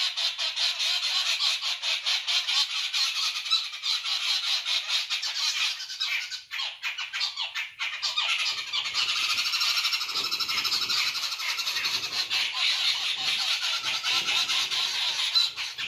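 A flock of many birds chattering and squawking at once: a dense, unbroken jumble of short, harsh calls.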